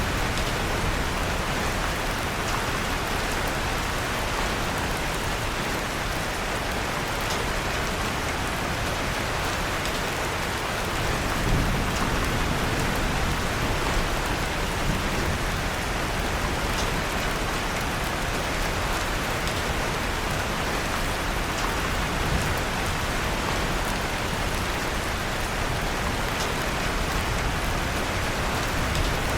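Steady rain, an even hiss, mixed with the faint occasional crackle of a wood fire in a fireplace. A soft low rumble comes about eleven seconds in.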